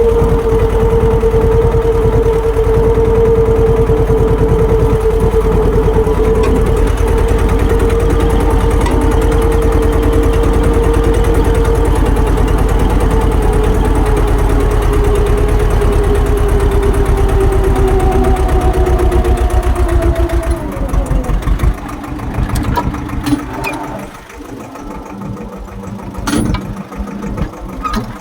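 Swaraj tractor's diesel engine running loud and steady, with a whine that slowly falls in pitch. About three-quarters of the way in, the sound drops off and becomes quieter and lower, with a few knocks near the end.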